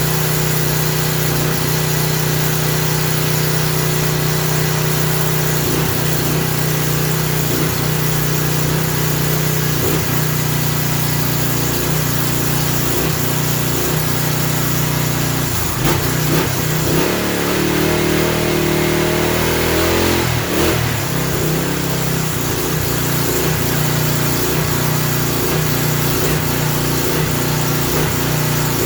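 Small single-cylinder four-stroke engine of a Craftsman pressure washer running without load. Its speed shifts for a few seconds past the middle: the engine is surging because it has no water pressure load on it.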